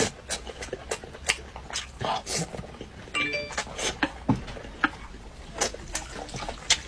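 Close-miked eating sounds: a person chewing a mouthful of braised pork with a run of wet lip smacks and mouth clicks, two or three a second.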